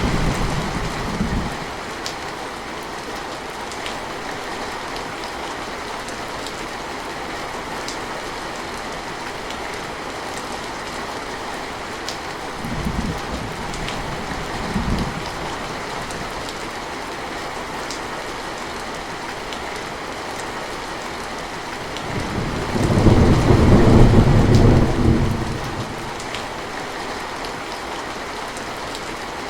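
Steady rain with rumbles of thunder: one fading out in the first second or so, two brief low rumbles around the middle, and a longer, louder roll of thunder about three-quarters of the way through.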